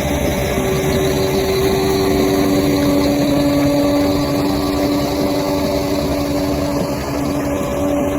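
Bulldozer's diesel engine running steadily under power, with a steady whine over the engine noise.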